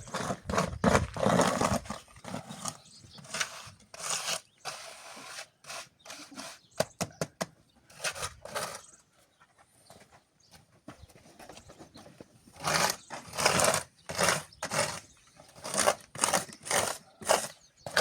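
A hand tool scraping repeatedly through wet sand-and-cement mix, in short noisy strokes that come faster and more evenly near the end, about one to two a second.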